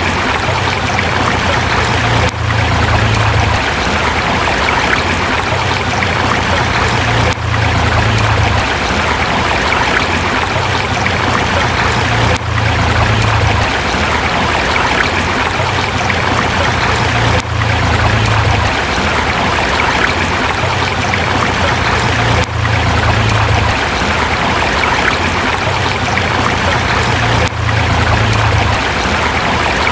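River water rushing over rocks in a steady, loud flow. The sound repeats itself, with a brief dip about every five seconds.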